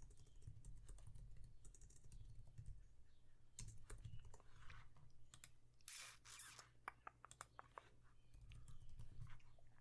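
Faint computer keyboard typing and clicking, scattered keystrokes throughout, with a brief rustle about six seconds in over a low steady hum.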